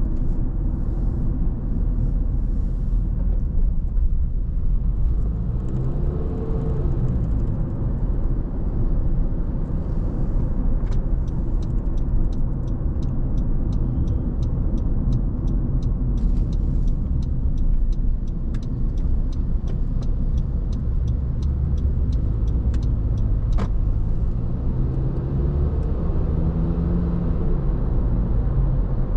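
Car driving: a steady low rumble of engine and tyres, with the engine note sliding up and down twice. Through the middle runs a regular ticking, about two a second.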